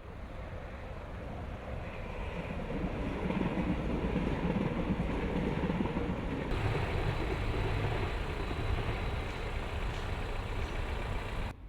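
Train passing on the line, growing louder over the first few seconds and cutting off abruptly near the end.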